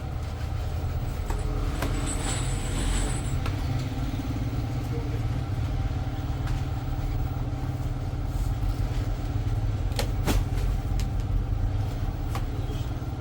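Steady low rumble of a motor vehicle running, with a brief high whine about two seconds in and a couple of sharp clicks about ten seconds in.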